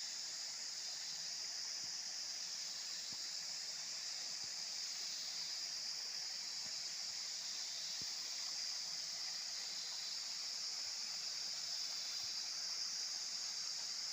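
Steady, high-pitched insect chorus that holds an unbroken, even buzz throughout.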